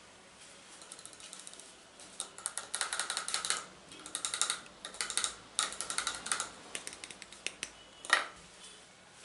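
ASMR tapping and clicking on hard objects: faint at first, then quick runs of rapid clicks a few seconds in, thinning out, with one sharper, louder knock near the end.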